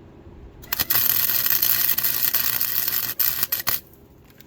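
MIG welder arc crackling as a tack weld goes onto a cracked steel go-kart frame: a steady crackle with a low hum under it for about two and a half seconds, then two brief restarts before it stops.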